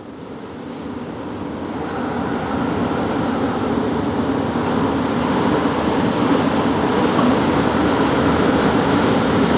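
Ocean surf washing on the beach: a steady rushing noise that slowly swells louder, with more hiss coming in about two seconds in and again past the middle.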